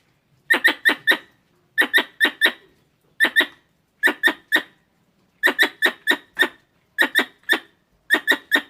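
Squirrel chattering calls: sharp chirps in quick runs of two to five, with a run about every second.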